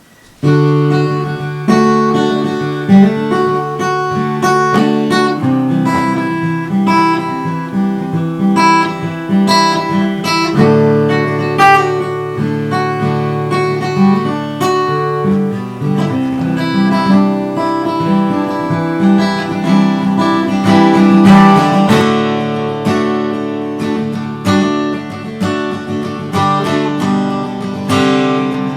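Acoustic guitar music, strummed and picked chords played continuously, starting about half a second in.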